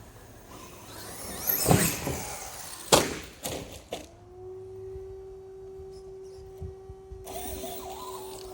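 Arrma Kraton RC truck's electric motor revving up with a rising whine on the launch. About three seconds in there is a hard crash as it lands, hard enough to split the body top, followed by a couple of clattering knocks. From about four seconds in a steady pitched hum holds.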